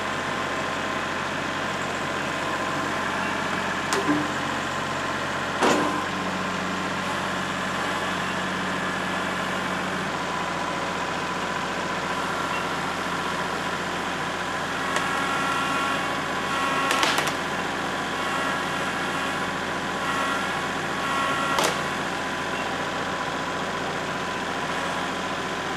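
Kubota L3301 HST tractor's three-cylinder diesel engine running steadily, the tractor pulling on a strap tied to a tree limb. Four short sharp knocks are spread through.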